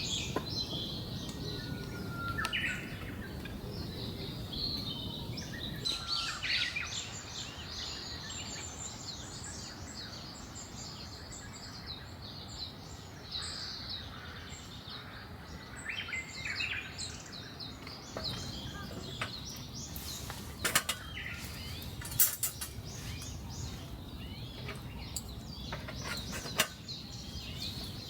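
Small birds chirping and calling over a steady background hiss. A few sharp clicks stand out in the second half.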